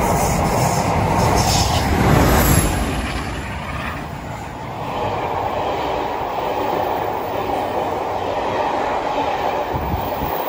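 Train passing close by: a continuous rumble of wheels running on the rails, with clickety-clack over the rail joints, loudest about two seconds in.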